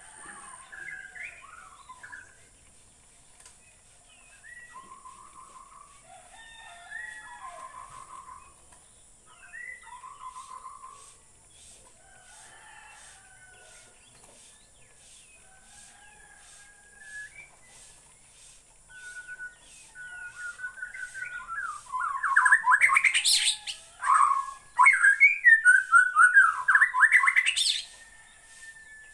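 Shama (murai batu) singing a varied run of whistled phrases; near the end the song becomes much louder, with fast repeated notes for several seconds.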